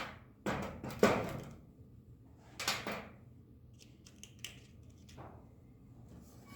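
A few short clunks and clatters from tools and parts being handled on a workbench, the loudest about a second in, another near three seconds, then a faint knock.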